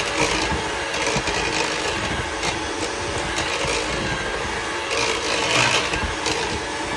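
Electric hand mixer running steadily, its motor humming as it beats cookie dough while flour is added.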